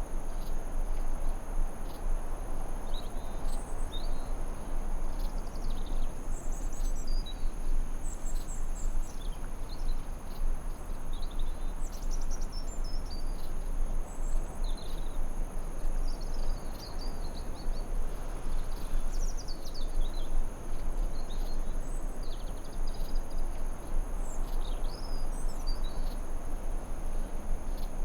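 Forest ambience: an even, steady rushing noise under a continuous high insect drone, with short bird chirps and trills scattered throughout.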